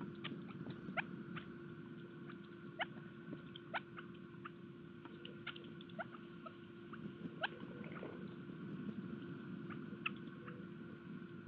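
Birds feeding at a garden bird feeder: many short, sharp, irregular ticks and chirps, a few each second, over a steady low hum.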